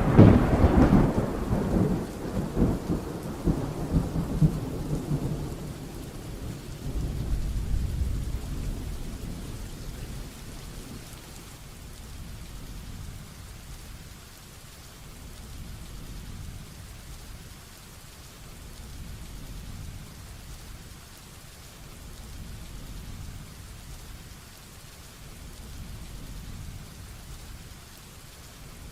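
Heavy rainstorm with thunder: a rumble of thunder fading over the first few seconds, another swelling up about eight seconds in, then steady heavy rain with faint low rumbling beneath.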